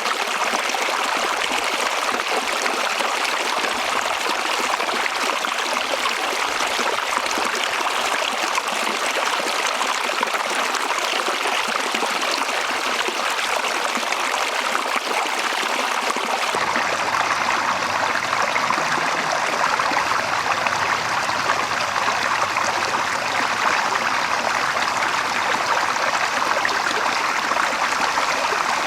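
Running water of a small stream, a steady rushing and trickling with no break. About halfway through the sound changes suddenly to a deeper, fuller rush.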